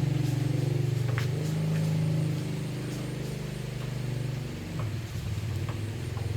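An engine running steadily with an even, low hum. It drops a little in level a couple of seconds in, and its pitch eases down a little past halfway.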